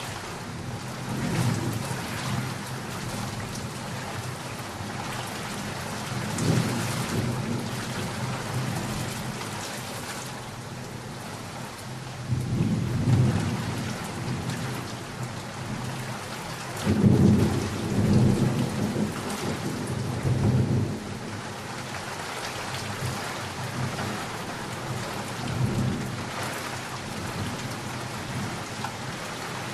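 Steady heavy rain with thunder rumbling several times, the loudest rolls in the middle of the stretch.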